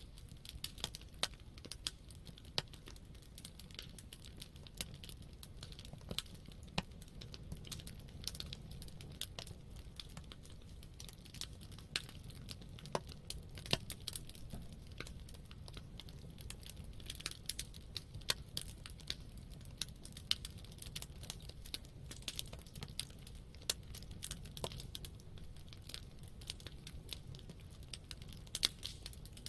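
Campfire crackling: irregular sharp snaps of burning wood over a low steady rumble of the fire.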